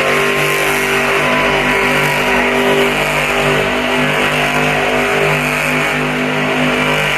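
A monster truck engine running steadily, mixed with music over the arena sound system.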